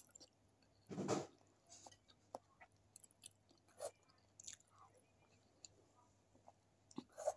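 Close-up chewing and mouth sounds of a person eating instant fried noodles with egg off a spoon, faint and irregular, with a short louder noise about a second in and another near the end.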